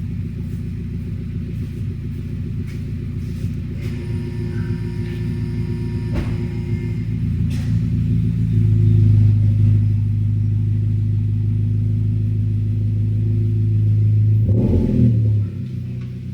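2014 Subaru Forester's 2.5-litre naturally aspirated flat-four running with the muffler removed. It idles at first, the revs rise about eight seconds in and are held steady for several seconds, then drop back to idle near the end.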